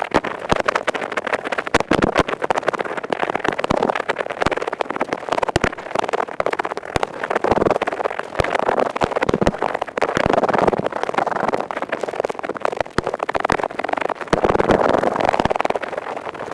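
Ear pick scratching fast and close up, a continuous stream of dry, rapid scraping clicks: the high-speed 'karikari' ear-cleaning sound. It swells and eases in patches.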